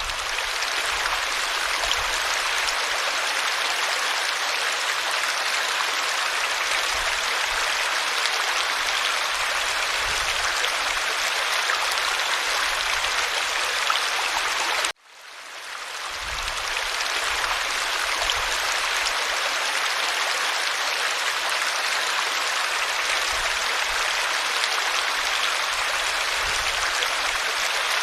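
A creek running: a steady, even rush and babble of flowing water. About halfway through it cuts out suddenly and fades back in over a second or so, where the recording loops.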